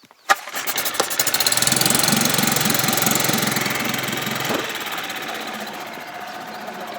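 Boat motor starting with a click and coming up to speed, a rapid steady firing beat. It runs loudest for a few seconds, then eases off from about four and a half seconds in.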